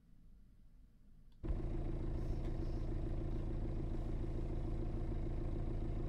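Car engine running steadily, cutting in abruptly about a second and a half in after near silence.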